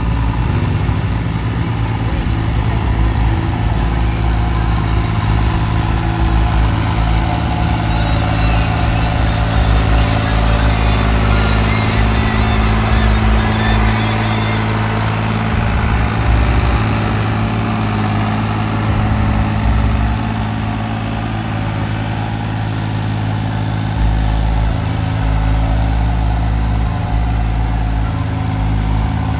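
A vehicle engine idling steadily, a loud, even low drone.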